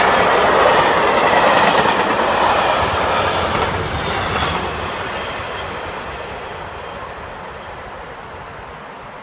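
A train passing on the line: loud rolling noise of wheels on the rails, dying away steadily from about four or five seconds in as it moves off.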